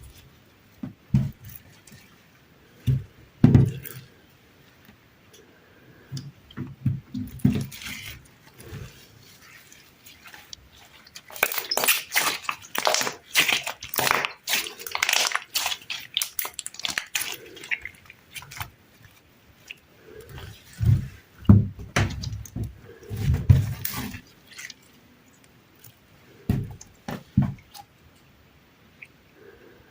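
Sticky slime being squeezed and pressed by hand: irregular wet squelches and clicks, with a dense run of crackling pops in the middle.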